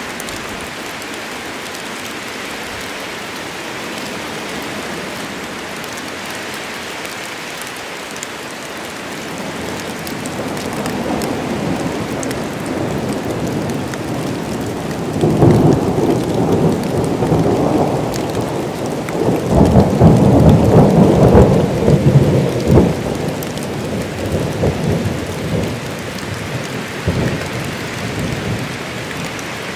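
Steady heavy rain falling, with a long roll of thunder that builds about a third of the way in, is loudest around the middle with two swells, and rumbles away near the end.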